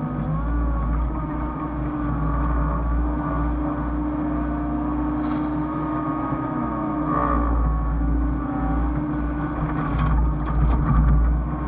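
Hyundai excavator's diesel engine running steadily, with a fainter whine that glides up and down in pitch as it works. A few short knocks come near the end, where it grows briefly louder.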